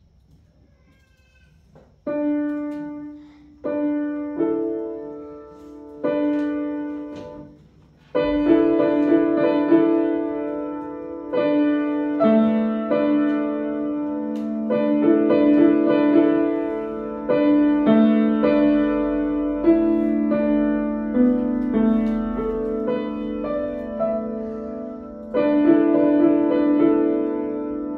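Piano playing a short piece: after a near-silent start, a few single notes struck and left to fade about two seconds in, then a fuller melody over lower notes from about eight seconds in.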